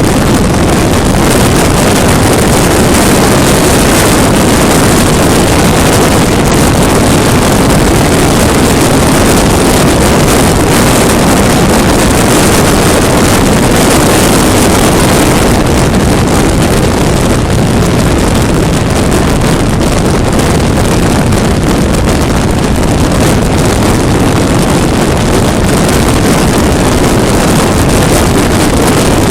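Steady loud wind noise roaring over the microphone of a 400cc motorcycle at highway speed, with the bike's engine and road noise mixed in underneath.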